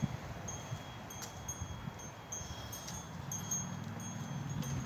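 High chime tones ringing on and off, the same few clear pitches sounding again and again, over a low background rumble.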